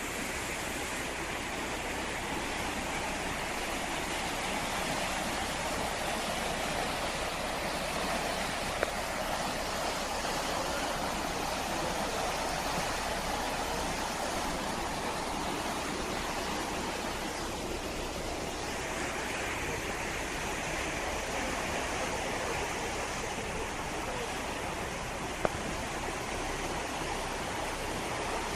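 Steady rush of fast-flowing floodwater, with two brief clicks, one about a third of the way in and one near the end.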